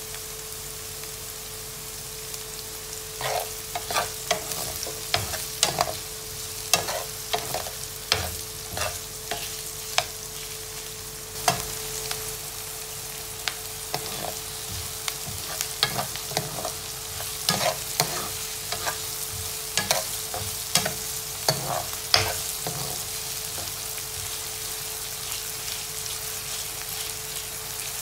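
Diced onion and garlic sizzling in oil in a nonstick skillet, being sautéed until browned. From a few seconds in until about three-quarters through, a metal spoon scrapes and clacks against the pan as they are stirred; after that only the steady sizzle remains.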